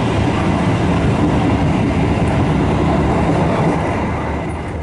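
KA Dhoho passenger train running along the track: a steady, loud rumble of wheels on rails that eases slightly near the end.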